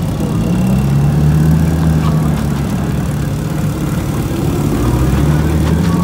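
Modified drift-car engines running at low revs through loud exhausts: a deep, steady exhaust note that rises and falls slightly in pitch as a car rolls slowly across the lot.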